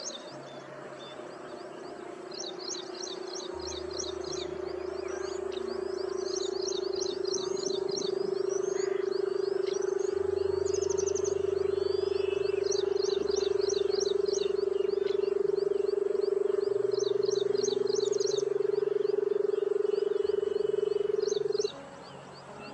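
A loud, steady low hum that grows louder and cuts off suddenly near the end. It sits over background music with changing bass notes and repeated high bird chirps.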